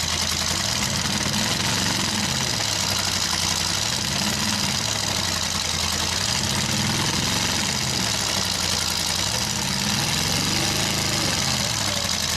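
Demolition derby truck engines running hard, their pitch rising and falling every couple of seconds as they are revved, over a steady wash of noise.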